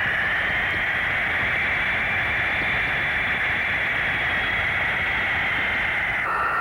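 Boeing 707 jet engines running with a loud roar and a high whine that rises slightly in pitch, then cuts abruptly to a lower whine near the end.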